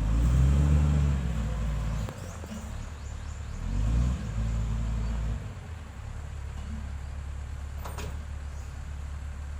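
Heavy road-equipment diesel engine running, revving up during the first two seconds and briefly again about four seconds in, then settling to a steady low run.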